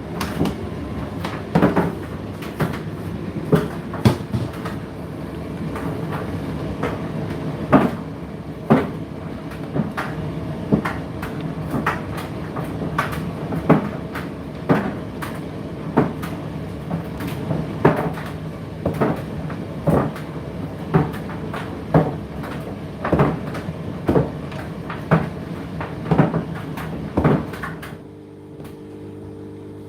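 Indesit IDC8T3 condenser tumble dryer running a drying cycle: a steady motor and fan hum with the load thudding against the turning drum about once a second. Near the end the thudding stops and only the steady hum continues.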